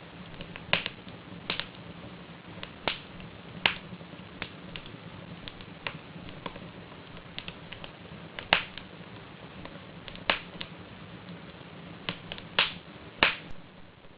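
Wood logs burning in a fireplace, crackling: irregular sharp pops and snaps, a few louder ones, over a low steady rush of the flames.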